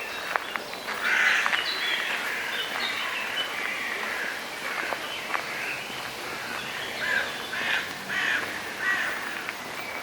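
Park birds calling in many short, harsh, overlapping calls, with a few faint clicks among them.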